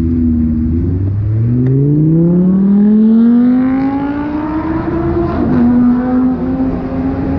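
Motor vehicle engine accelerating: its pitch climbs for several seconds, dips briefly about a second in, then drops and holds steady about five seconds in, as with gear changes.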